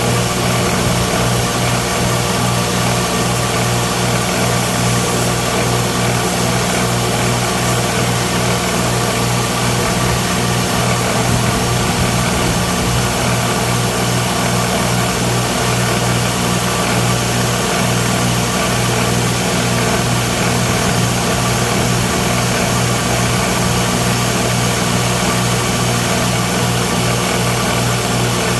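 Electric grinder running steadily with a constant, even hum that does not change.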